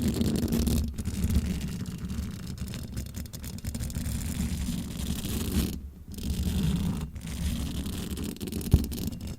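Close-up scratching and brushing noises right on the microphone, with a heavy low rumble, pausing briefly twice in the second half.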